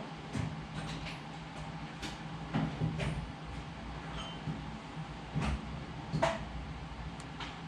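Scattered light clicks and knocks of hand tools and metal parts being handled, about eight in all, over a steady low hum.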